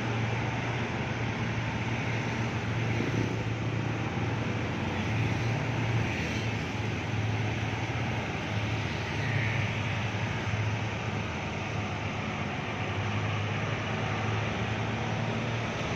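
Loaded truck's engine running steadily with a low, even hum, under a steady hiss.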